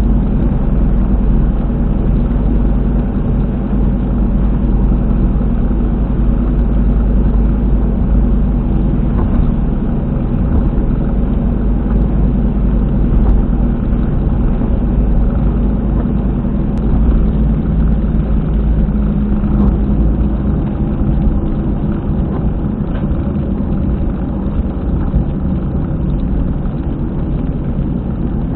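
Car driving at expressway speed, heard from inside the cabin, with a loud, steady low rumble from a rear wheel: the 'boko-boko' noise of a failed hub bearing.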